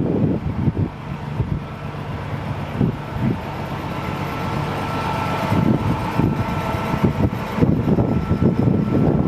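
1996 Peterbilt 379 dump truck's diesel engine running steadily, growing louder through the middle, with wind buffeting the microphone.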